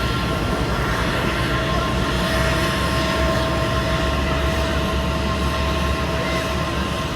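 Jet airliner's turbofan engines running steadily: a constant rumble with several steady whining tones over it.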